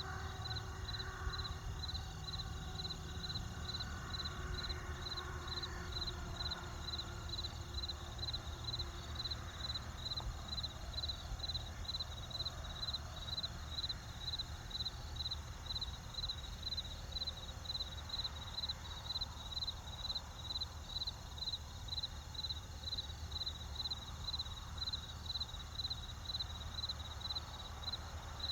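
A cricket chirping steadily, a short high trill repeated about twice a second, over a low, steady rumble.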